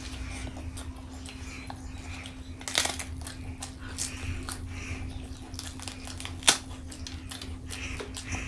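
Close-miked eating sounds: a person chewing, with mouth noises and scattered sharp clicks, and one loud click about six and a half seconds in, over a steady low hum.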